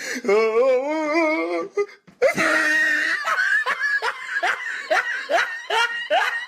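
Laughter sound effects back to back: a wavering, drawn-out laugh for about two seconds, then after a brief cut a long run of quick rising laughing pulses.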